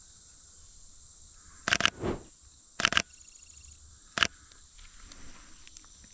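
Steady high-pitched drone of rainforest insects. Several sharp clicks cut across it, with a quick run of about ten even ticks in the middle.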